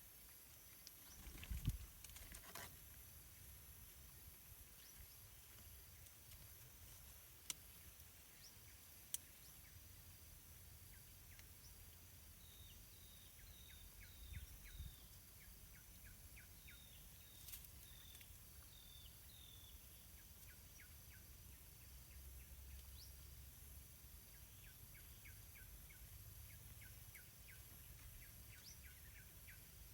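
Faint outdoor ambience: a steady high-pitched insect drone, with a few soft knocks near the start and, from about the middle on, repeated runs of faint short bird chirps.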